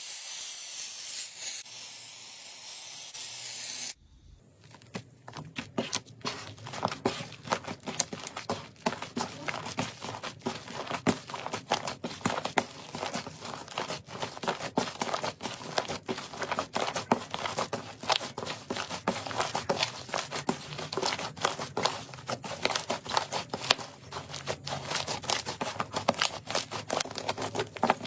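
Slime being handled: a steady hiss for the first four seconds, then after an abrupt cut, dense, fast crackling and popping clicks as crunchy slime is squeezed and pressed.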